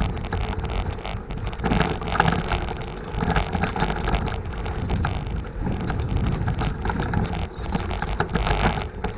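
Wind buffeting the microphone over the rattle and knocks of a Forward mountain bike riding on a dry dirt road, with many small jolts throughout.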